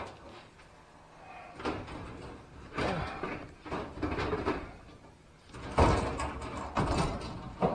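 Irregular knocks, scrapes and rustles of things being handled and moved, with a louder thump about six seconds in.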